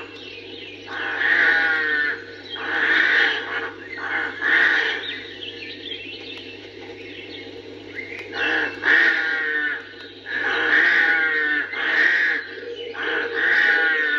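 Rooks cawing in irregular bursts of rough calls, with other birds, over a faint low hum that stops near the end.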